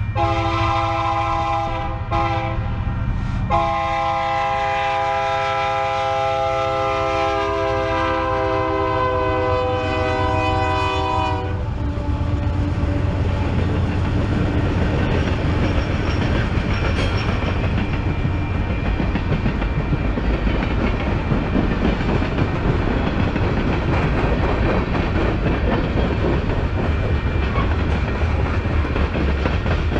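Freight locomotive air horn blowing a chord of several tones, broken briefly twice in the first few seconds, then held in one long blast until about twelve seconds in. After that comes the steady rumble and clickety-clack of the train rolling past.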